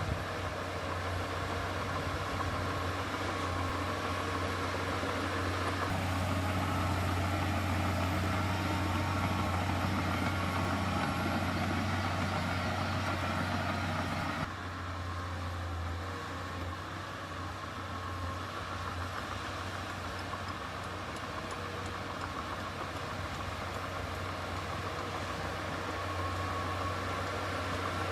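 Heavy diesel earthmoving machinery running steadily, with a strong low engine hum. About halfway through, the sound drops abruptly in level and character.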